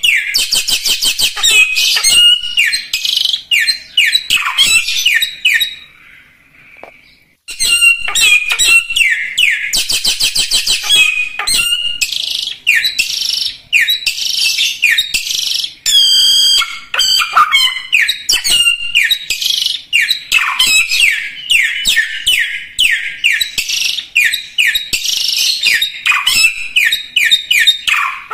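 A caged samyong songbird in full, vigorous song: long, fast runs of sharp, high chirping notes with a short pause about six seconds in. It is the kind of song that bird keepers play as a tutor recording for other songbirds.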